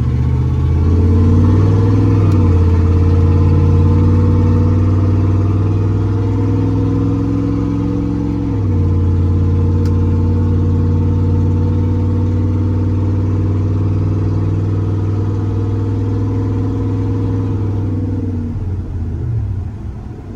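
1995 Dodge Ram 1500's 5.9-litre Magnum V8 pulling under acceleration. Its note climbs, drops sharply with an upshift about eight seconds in, climbs again more slowly, then eases off near the end.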